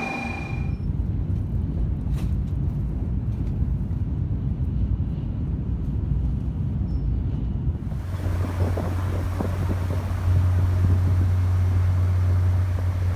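Low rumble of a moving vehicle with wind on the microphone. About eight seconds in it cuts to a louder, steady low engine drone with a hiss of wind and water, as on the deck of a ferry under way.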